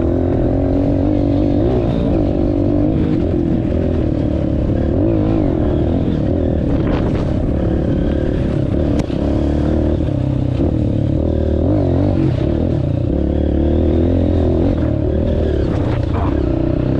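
Honda CRF230F's single-cylinder four-stroke engine running as the dirt bike is ridden, its pitch rising and falling with the throttle, with a few brief knocks.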